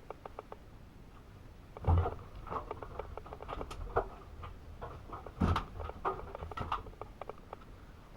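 AEG Öko-Lavamat 72520 front-loading washing machine with its drum turning, the wet laundry tumbling inside with an irregular patter of clicks and knocks. Two heavier thumps come about two and five and a half seconds in.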